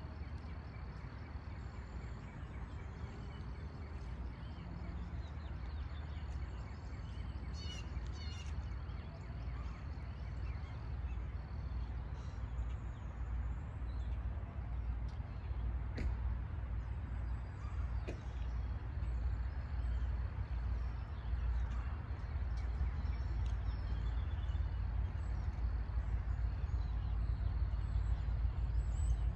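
Distant approaching train: a low rumble that grows steadily louder as it nears, with scattered bird chirps over it.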